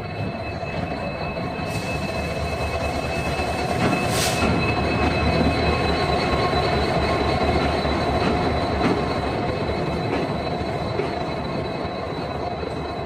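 Passenger train behind a WDP4 diesel locomotive rolling slowly into a station, wheels running on the rails with steady high-pitched squealing from wheels and brakes. The sound swells in the middle, with a brief hiss about four seconds in.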